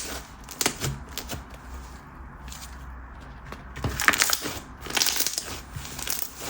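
Thick chew-texture slime being pressed and stretched by hand, giving scattered sticky clicks and small pops. The clicks come in quick clusters, busiest from about four to six seconds in.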